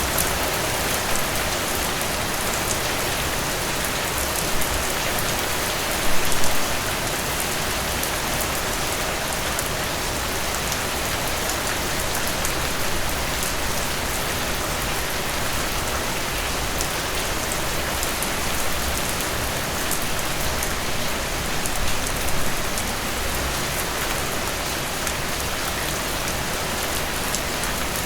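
Steady rain falling on a surface, a dense even hiss with individual drops ticking through it, and a couple of brief louder spatters, one about six seconds in and one past the middle.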